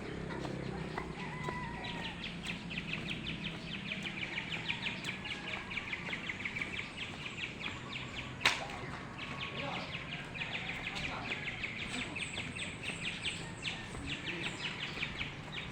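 Rapid, evenly repeated high chirping from a small animal, in two long runs. A single sharp click comes about eight and a half seconds in.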